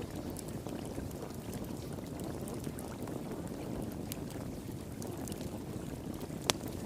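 Flowing water rushing steadily, with a wood fire crackling over it in scattered small pops and one sharper, louder pop near the end.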